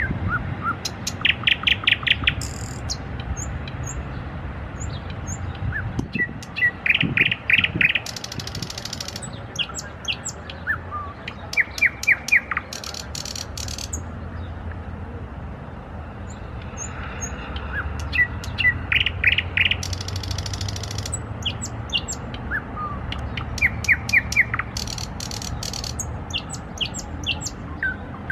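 A nightingale singing: phrases of fast repeated loud notes and dry rattling trills, a few seconds apart, over a steady low background rumble.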